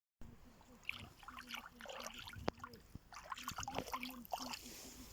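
Rustling and crackling, like spaniel puppies moving through forest leaf litter, with a sharp click about two and a half seconds in. Under it, a low short pulse repeats about four times a second.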